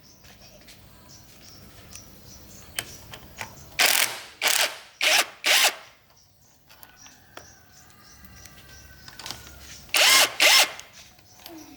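A power tool run in short bursts of about half a second, mostly in pairs, with quiet gaps between them.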